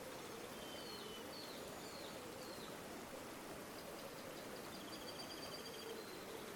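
River water flowing steadily, with small birds calling over it: four short high chirps in the first few seconds, then a rapid high trill from about four to six seconds in.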